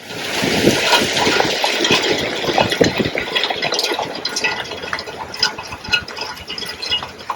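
Burning pile of storm-debris branches: a fire hissing and crackling densely with many sharp pops, loudest at the start and easing off slowly.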